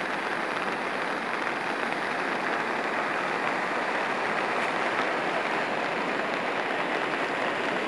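Steady noise of rain falling, mixed with the rush of a muddy river in flood.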